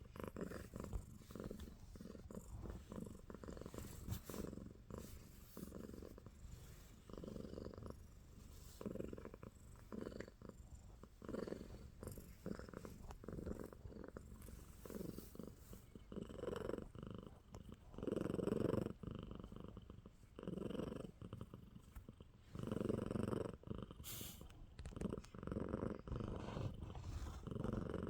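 Domestic cat purring steadily, the purr swelling and fading with each breath about every one to two seconds.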